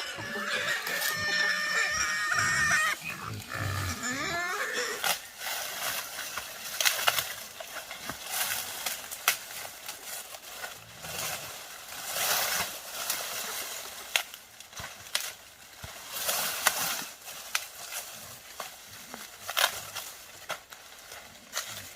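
Wild boar calling with pitched squeals and grunts for the first four seconds or so, followed by a long run of short clicks and rustling.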